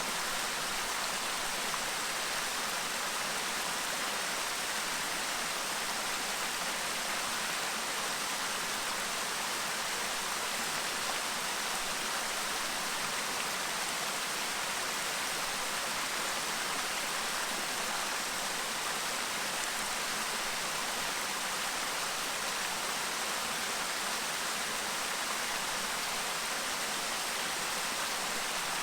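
A clear stream babbling steadily, an even rush of flowing water.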